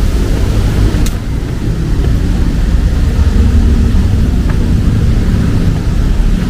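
Street ambience in heavy rain: a steady low rumble of road traffic under a fainter hiss of rain, with one sharp click about a second in.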